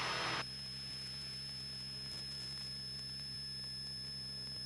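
Steady, muffled hum of the Cessna 182RG's six-cylinder Lycoming engine at takeoff power during the climb after rotation, heard through the headset audio feed with a steady high-pitched electrical whine over hiss. A louder hiss cuts off about half a second in.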